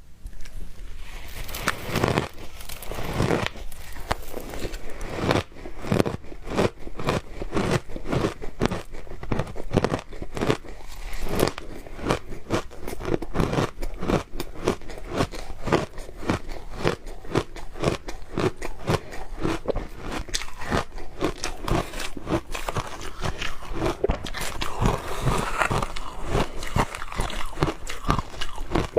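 Shaved ice being bitten and chewed close to the microphone: a dense run of crisp, crunchy crackles, several a second and uneven.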